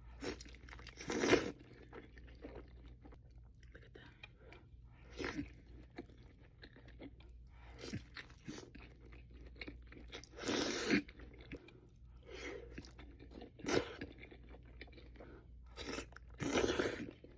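Close-miked mukbang eating of Buldak noodles and saucy Wingstop chicken wings: bites and crunchy chewing, with about six louder crunches spread every few seconds between quieter chewing.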